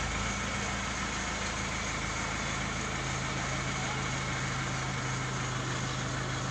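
Chevrolet Cruze engine idling steadily, just after being started while the cleared fault codes are being re-checked.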